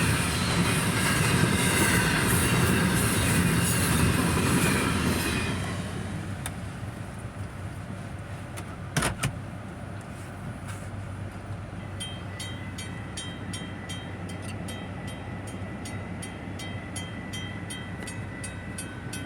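Intermodal freight cars rumbling and clattering over a grade crossing, falling away about six seconds in as the end of the train goes by, with a single sharp bang a few seconds later. The grade crossing bell then rings steadily, about three strokes a second.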